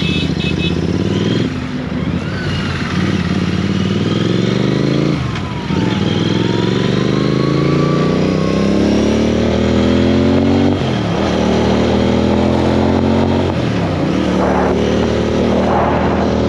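Triumph Speed 400's single-cylinder engine accelerating hard through the gears, its pitch climbing steadily and dropping sharply at each of four upshifts, over a rush of wind.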